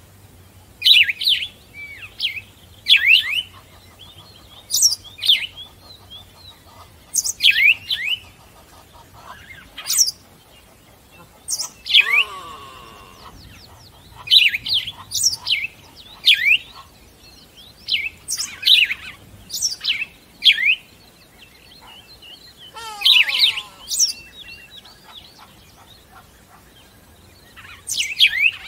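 Birds chirping: short, sharp falling notes repeated every second or two. Twice a longer call sweeps downward.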